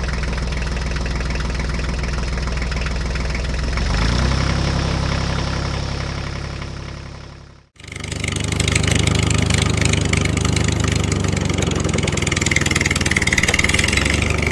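A motor vehicle engine idling steadily. Its note shifts about four seconds in, then fades out in an edit just past halfway. Another engine fades back in and keeps running.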